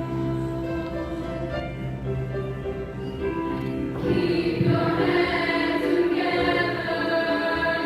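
Junior high school choir singing held chords, the sound growing fuller and louder about four seconds in.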